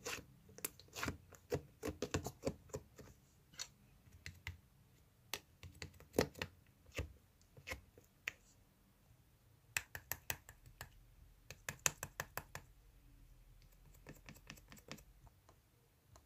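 Sharp clicks and taps in irregular quick clusters, with short pauses between.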